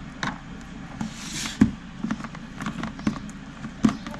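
Slime being handled, making irregular sticky clicks and small pops, with a brief hiss about a second in.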